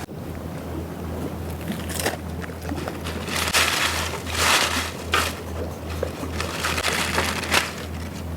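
Small waves washing onto a lakeshore, swelling up and falling back every few seconds, over a steady low rumble of wind on the microphone.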